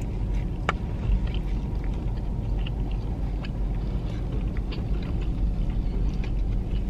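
Small clicks and rustles of people eating tacos, over a steady low rumble.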